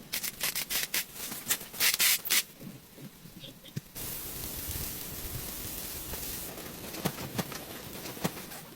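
Rustling and scraping strokes, the loudest about two seconds in. At about four seconds this gives way abruptly to a steady hiss with scattered light clicks.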